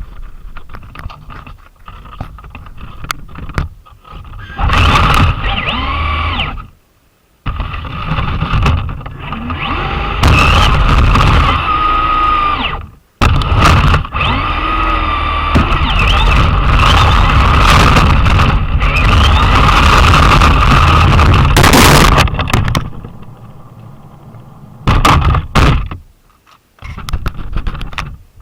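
Traxxas Slash electric RC truck driven in bursts and heard from a camera mounted on it: motor and gear whine rising and falling with the throttle over a rumble of tyre noise, with knocks and short pauses between runs.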